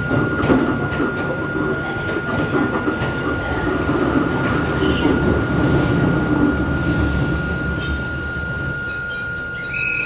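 Running noise inside a Hakone Tozan Railway Moha 1 electric car with nose-suspended traction motors: a steady low rumble of wheels and running gear. About halfway through, a high steady squeal of the wheels on the rails sets in and holds.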